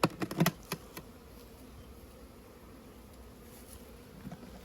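Honeybees buzzing around an open hive: a faint, steady hum. A few sharp clicks and knocks come in the first second.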